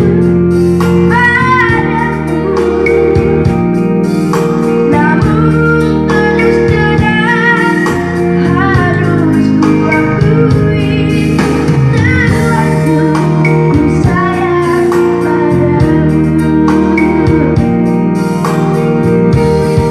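Pop ballad with a child singing a wavering, vibrato-laden melody over a band accompaniment with guitar.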